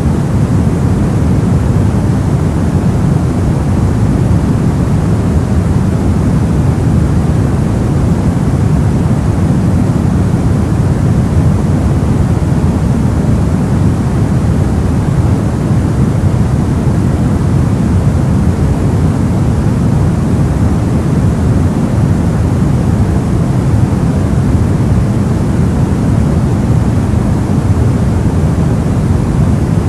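Steady, unchanging sleep noise, a deep even hiss weighted toward the low end rather than a bright white hiss.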